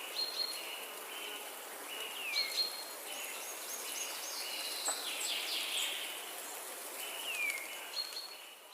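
Forest birds calling over a steady high hiss. Their short whistled notes repeat at about the same pitch, a few slide downward, and a quick run of higher notes comes a few seconds in.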